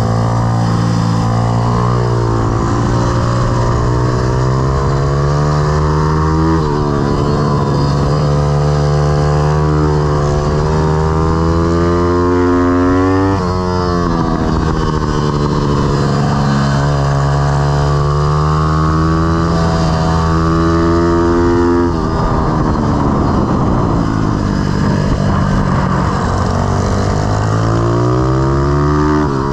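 Pit bike's YX160 single-cylinder four-stroke engine running hard. Its pitch climbs as it accelerates, then drops off sharply several times, at about 7, 13, 22 and 29 seconds in, as it shifts or comes off the throttle.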